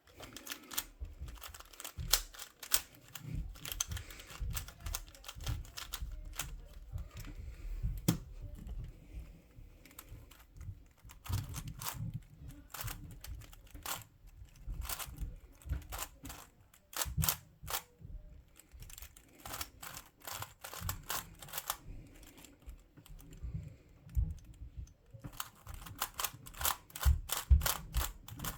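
Plastic twisty puzzle cube turned quickly by hand: runs of rapid clicking turns broken by short pauses.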